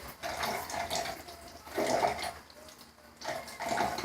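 Water splashing and running in three short spells as a troll doll's hair is rinsed.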